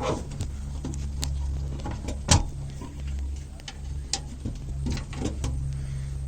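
An engine idling with a steady low hum, with several sharp clicks and knocks over it; the loudest knock comes a little past two seconds in.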